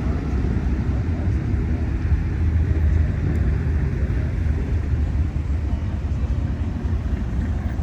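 Engines of classic cars cruising past, a steady low rumble that swells slightly about two to three seconds in.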